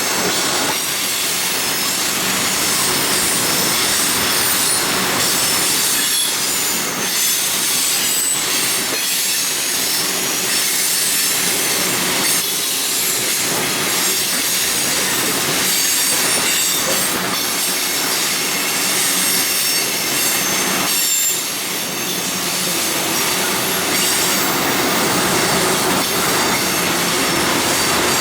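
Norfolk Southern freight cars rolling steadily past, wheels on the rails with a thin high-pitched squeal over the rumble.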